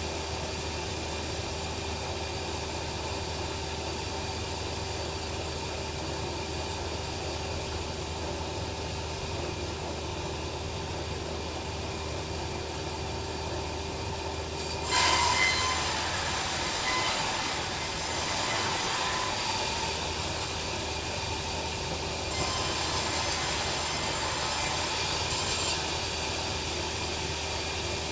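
Log bandsaw running steadily. About halfway through, the blade bites into the log and cuts with a loud, high, rasping noise. The cut eases briefly a few seconds later, then carries on until near the end.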